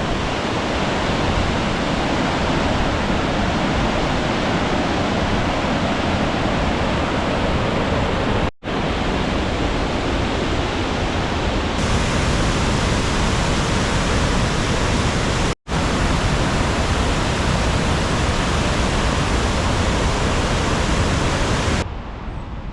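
Swallow Falls waterfall rushing: a loud, steady roar of falling water, broken by two short gaps and dropping away near the end.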